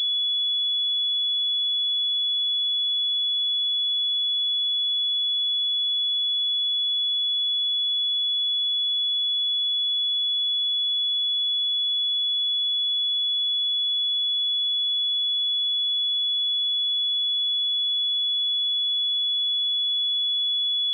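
A pure 3404 Hz sine-wave test tone, held steady at one pitch and level with nothing else in it.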